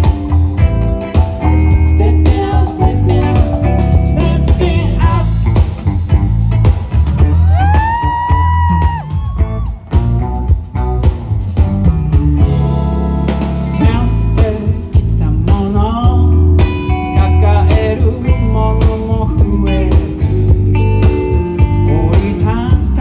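A live band playing a pop-rock song, with a strong bass line, drum hits and guitar. About eight seconds in, a held note bends up and back down.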